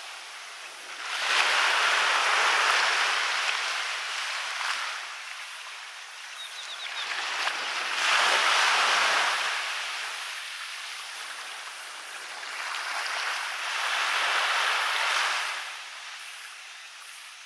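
Waves breaking and washing up a beach, the surf swelling and falling back three times, about six seconds apart.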